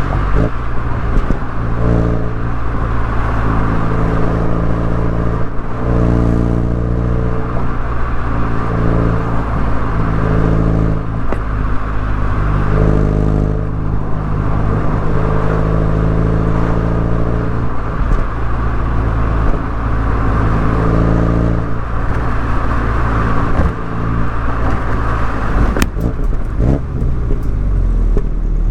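BMW MINI Cooper S engine and exhaust while driving, the engine note shifting up and down every few seconds as the car accelerates and eases off.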